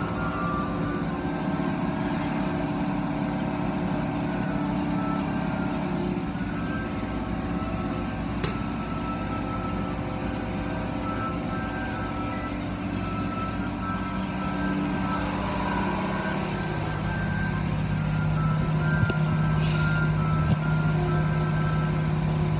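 Automatic car wash machinery running: a steady mechanical hum with short higher tones coming and going. It grows louder about three-quarters of the way through, when a strong low hum takes over.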